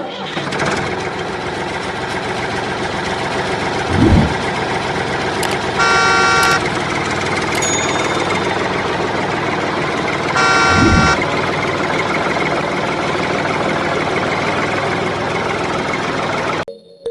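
A vehicle engine running steadily, with two short horn honks about six and ten and a half seconds in and a dull thump shortly before each; the sound cuts off abruptly near the end.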